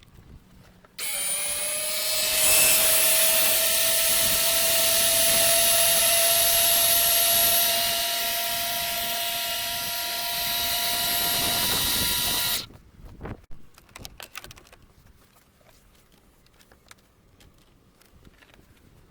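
A small electric motor starts suddenly, spins up with a slightly rising whine, runs steadily with a strong hiss for about eleven seconds, then cuts off abruptly. Faint clicks and handling noise follow.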